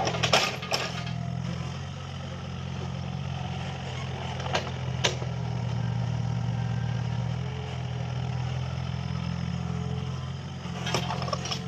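Mini excavator engine running steadily, growing a little louder for a couple of seconds after the middle, with a few sharp metallic clanks just after the start and two more around the middle as it works.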